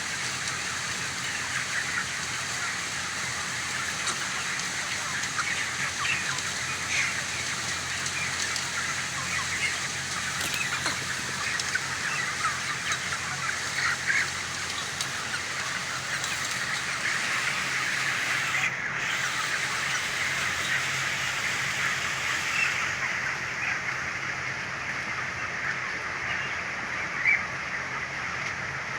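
A large flock of chickens, about 30 days old, chirping all at once without a break. A faint steady low hum lies beneath.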